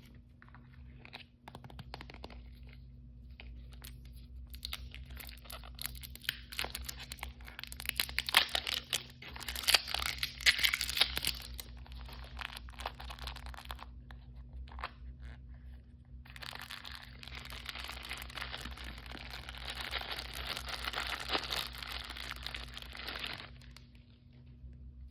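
Blind-bag packaging being torn open and crinkled by hand, in two long spells of crackling with sharp tearing peaks.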